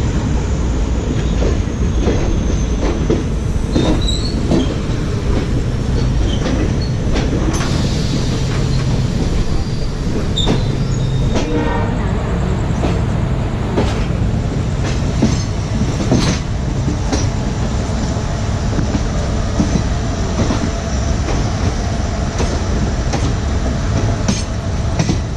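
Passenger express train running on the rails: a steady low rumble from the wheels and coaches, with irregular clicks and knocks as the wheels pass rail joints and points, and a thin high wheel squeal fading in the first few seconds.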